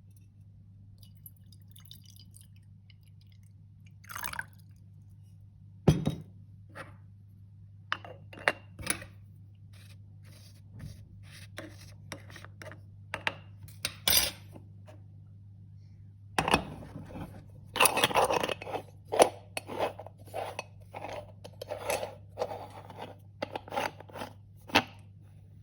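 Scattered crunching and clinks of dishes and cutlery at a meal, sparse at first and coming thick and fast in the second half, over a faint steady low hum.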